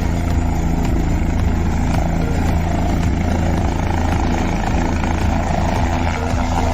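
Helicopter running, with a steady drone of engine and rotor.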